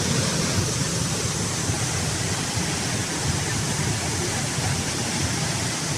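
Steady rush of falling water from a waterfall, an even noise that does not change.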